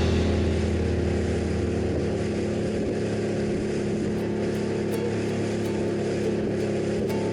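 Small fishing boat's outboard motor running at a steady speed.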